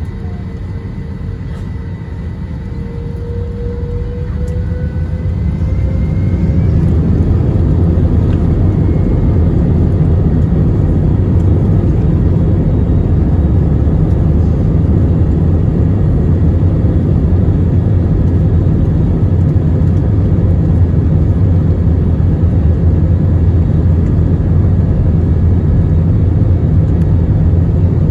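Airbus A321 jet engines spooling up to takeoff thrust, a rising whine over the first six seconds or so, then a loud, steady roar with heavy low rumble as the takeoff roll continues.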